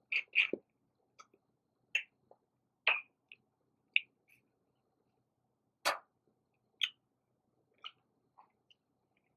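Snow crab legs being eaten: a string of short, sharp cracks and clicks at irregular intervals, roughly one a second, from shells cracking and chewing close to the microphone.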